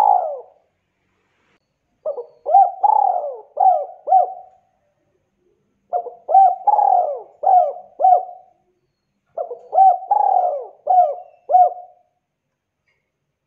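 Spotted dove cooing: the end of one phrase, then three full phrases of several rising-and-falling coos, a new phrase every three to four seconds.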